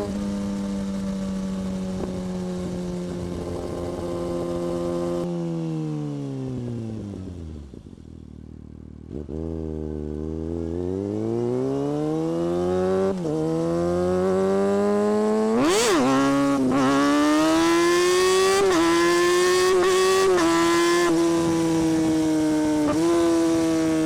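2017 Kawasaki Ninja ZX-6R's inline-four engine and exhaust: a steady cruising note that falls as the bike slows almost to idle, then rises as it pulls away again through a gear change. A quick sharp rev blip comes about two-thirds in, before it settles into a steady higher cruising note.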